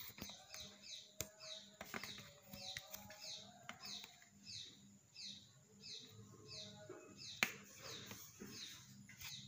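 A small bird chirping over and over, short high chirps that fall in pitch, about two a second. A few sharp knocks come in between, the loudest about seven and a half seconds in.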